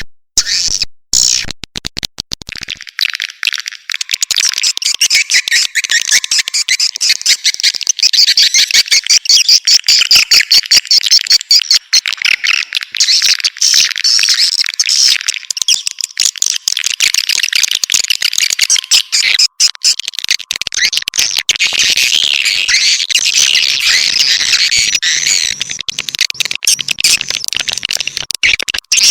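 Swiftlet lure call: dense, continuous, high-pitched twittering and chirping of swiftlets, the kind of sound played to draw swiftlets into a nesting house. The first couple of seconds hold a choppier sound that reaches lower pitches before the twittering takes over.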